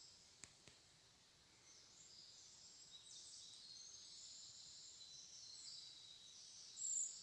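Near silence with faint high-pitched chirps of small birds, coming in about three seconds in, and one sharper, louder chirp near the end.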